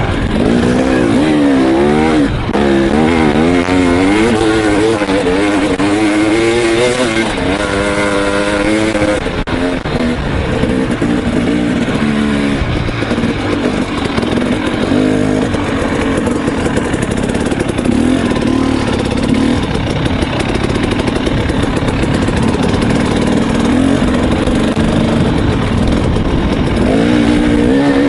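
KTM 300 XC two-stroke dirt bike engine revving up and down under riding. The pitch swings quickly with the throttle for the first several seconds, steadies out for a long stretch, then rises and falls again near the end.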